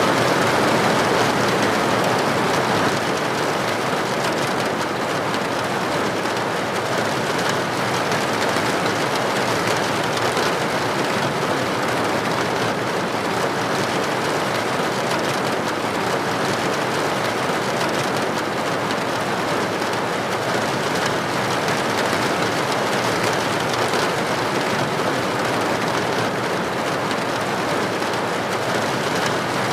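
Steady rain falling: an even hiss of many drops, with no break or change.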